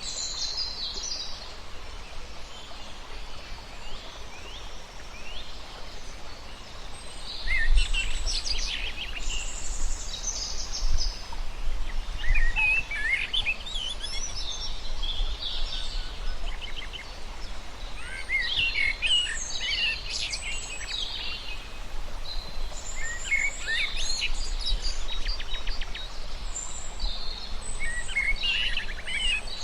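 Birds chirping and twittering in repeated bursts of quick high calls over a steady outdoor hiss, with a low rumble underneath from about eight seconds in.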